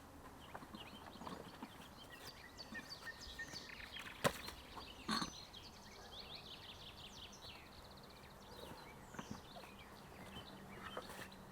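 Small birds chirping, with a fast high trill about five to six seconds in, over a faint forest background. Two sharp knocks stand out, about four and five seconds in.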